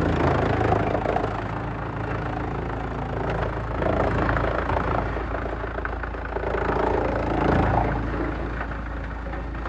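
Large industrial wood chipper running: a heavy engine drones steadily under a rough grinding noise, with scattered knocks and cracks.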